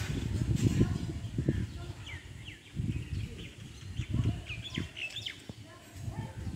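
Small birds chirping outdoors: a string of short chirps that slide downward in pitch, clustered in the middle, over uneven low rumbling on the microphone.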